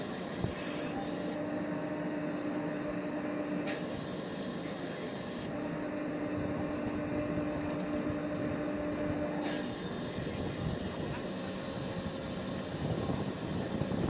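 Steady drone of running engine machinery, with a humming tone that comes in twice for a few seconds each time and then drops out.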